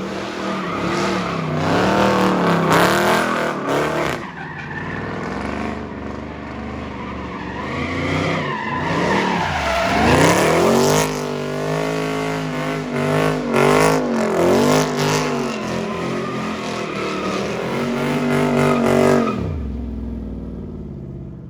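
Car engine revving hard, its pitch rising and falling again and again, with tires squealing as the car does burnout donuts and lays down a smoke cloud; the engine and tire noise die away about two seconds before the end.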